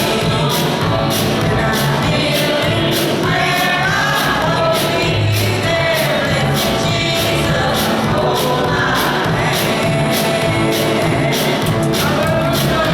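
Gospel song sung by a group of voices with band accompaniment, over a steady beat.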